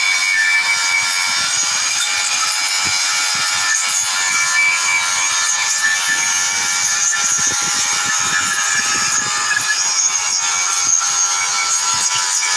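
Angle grinder running steadily against steel plate, a continuous high-pitched grinding whine with a harsh hiss.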